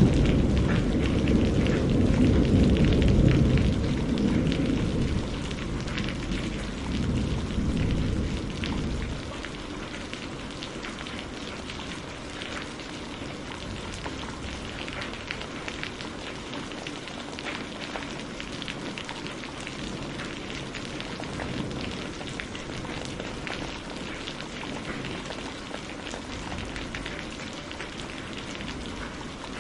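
Steady rain falling, with many distinct drops pattering on a surface. A low thunder rumble dies away over the first nine seconds or so, leaving only the rain.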